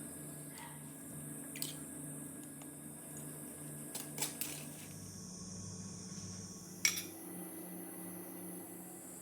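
A few sharp clinks of a utensil against metal cookware, spaced out over several seconds, the loudest about seven seconds in, over a steady low hum.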